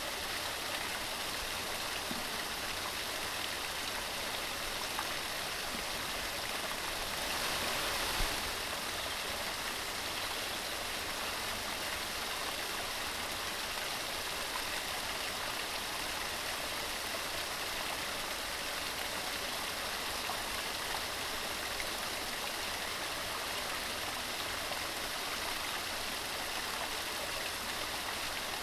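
Mountain stream off the Skiddaw fells running steadily over rocks, an even rushing of water. About eight seconds in, a brief louder rush ends in a soft knock.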